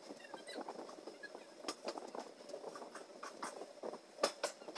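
Passenger train running along the track, heard from an open coach doorway: a steady running rumble with irregular sharp clacks of the wheels over rail joints and points, the loudest clack near the end.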